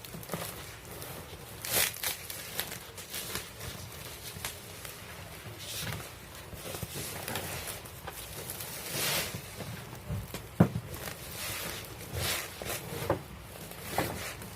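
Scattered footsteps, rustling and small knocks of things being handled, with one sharp knock about ten and a half seconds in.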